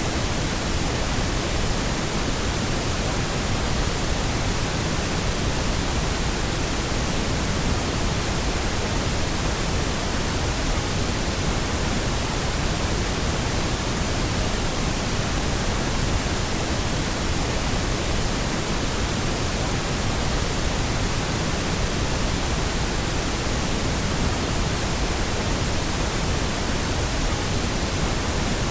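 Steady pink noise: an even, unchanging hiss across the whole range, without breaks or changes.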